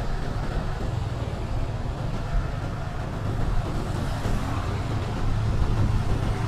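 Motorcycle engine running steadily as the bike rides along, a low hum over road and wind noise that grows a little stronger near the end.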